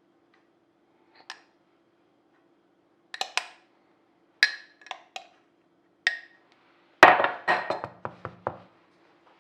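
Sharp knocks and clinks of household objects being handled and set down, a few spaced apart and then a quicker, louder run of knocks about seven seconds in, over a faint steady hum.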